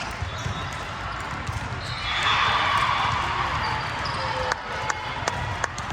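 Gym hubbub during a volleyball rally. A burst of crowd noise swells for about two seconds near the middle, then sharp knocks of the ball being hit and bouncing on the hard court floor.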